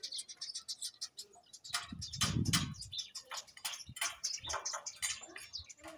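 Small birds chirping in a tree: quick, repeated high chirps, with a brief low rumble about two seconds in.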